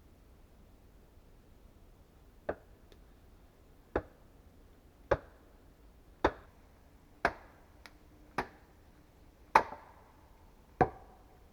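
Axe chopping wood: eight sharp, single blows about once a second, starting a couple of seconds in, with a couple of faint clicks between them.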